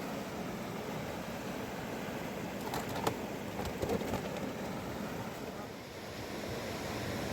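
Steady rushing water of a fast river, with a few sharp clicks or knocks about three to four seconds in.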